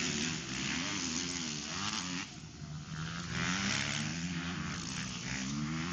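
Motocross bike engines revving, their pitch rising and falling repeatedly as the riders accelerate and shift. The sound dips briefly about two seconds in.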